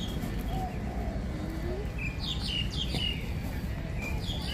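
Birds chirping, with short calls that slide downward in pitch and repeat every second or so, along with a few lower cooing calls. A steady low rumble of background noise runs underneath.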